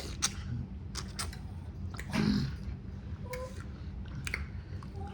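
Close-miked chewing of kimchi stew, with wet mouth clicks and smacks scattered through and a brief closed-mouth "mm" about two seconds in.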